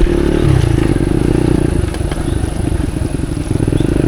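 Motorcycle engine running at low, steady speed on a muddy, slippery track, with a few light knocks.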